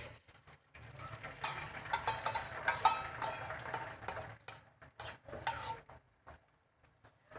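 Beaten eggs poured from a steel bowl into hot oil in a small pan, with a sizzle and a spoon clinking and scraping against the bowl. The busiest part runs for about three and a half seconds, then scattered clinks trail off.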